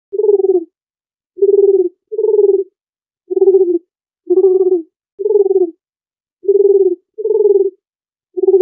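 Dove cooing: a string of short, low coos, about one a second and some in close pairs, starting just after a silence.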